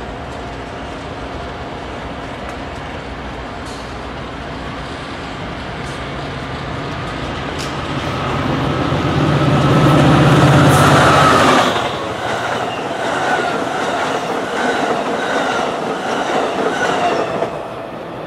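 A diesel-hauled train passing close by. Its engine hum and rail noise build to a peak about ten seconds in and drop off suddenly, then the wheels keep up a regular clickety-clack over the rail joints.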